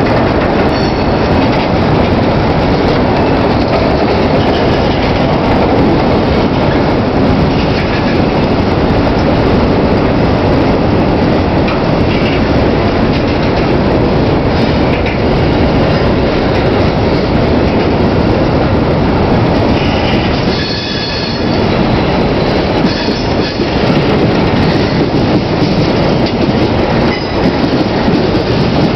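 Railroad cars rolling past: a loud, steady rumble with some high wheel squeal, easing briefly about twenty seconds in.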